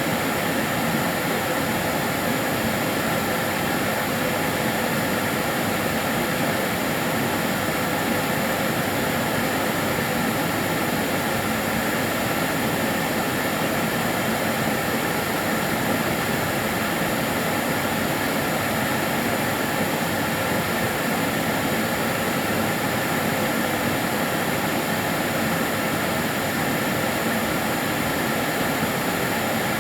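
Karcher DS 6 Premium water-filter vacuum cleaner running steadily: an even rushing hiss of suction with a faint motor hum and a high steady whine.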